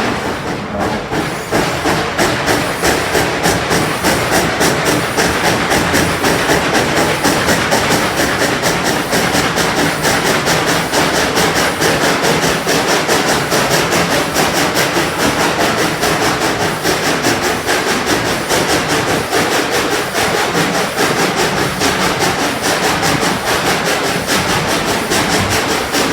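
Narrow-gauge train in motion, heard from aboard: a steady, rhythmic clatter that repeats a few times a second.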